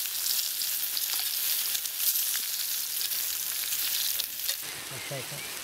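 Peppers and onions sizzling and crackling as they fry, the sizzle easing a little about four and a half seconds in.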